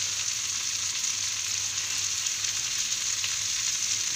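Crickets (kuliglig) frying with onion and kamias in a pan: a steady sizzle.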